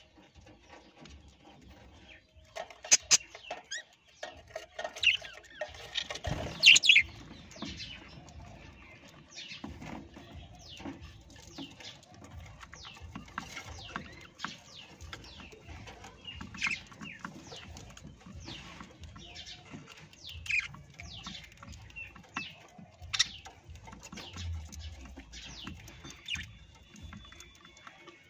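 Parrots giving repeated short, sharp chirps and squawks, each call dropping quickly in pitch, with scattered clicks and scratching between them. The loudest squawks come about three seconds in and again around six to seven seconds.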